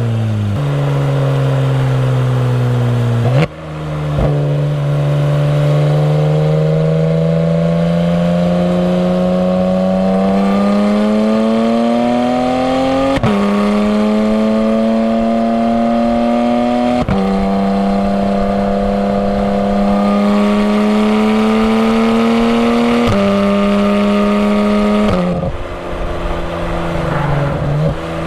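Porsche 991 GT3's flat-six engine, fitted with Fabspeed sport headers and side-muffler bypass pipes, pulling up through the gears: the exhaust note climbs in pitch and drops sharply at each of four upshifts. Near the end it eases off and the pitch falls.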